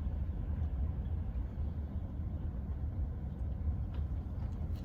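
Steady low rumble inside a car cabin.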